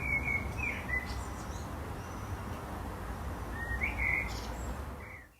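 Songbirds chirping over a steady outdoor background hiss: short bursts of chirps near the start and again after the middle, with the whole ambience fading out at the end.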